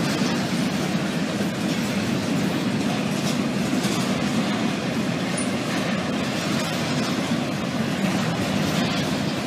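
Double-stack intermodal freight train's loaded well cars rolling past: a steady rumble of steel wheels on the rails.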